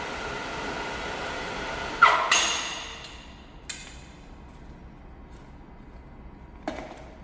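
A steady mechanical hum, then two loud metallic clanks about two seconds in that ring out as the hum dies away, followed by two lighter knocks of metal on metal.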